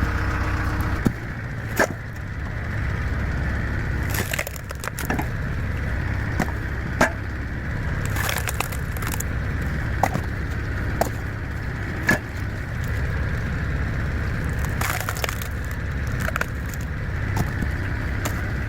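Hydraulic log splitter driven by a tractor splitting thick firewood logs: repeated sharp cracks and splintering as the wood gives way, some in quick clusters, over the steady low running of the tractor engine.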